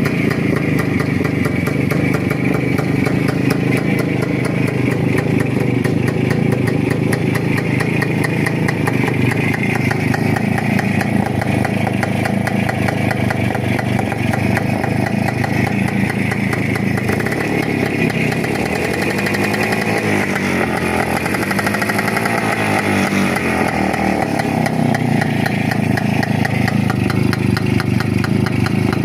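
Old motorcycle engine running steadily, its engine speed rising and falling for a few seconds past the middle before settling back to a steady run.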